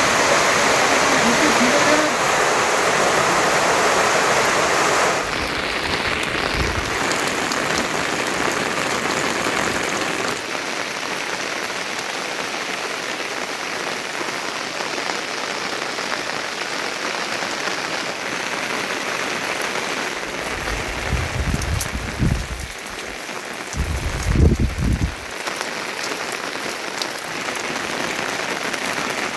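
Steady rain falling, an even dense hiss. About two-thirds of the way through, two low rumbles rise and fade, one shortly after the other.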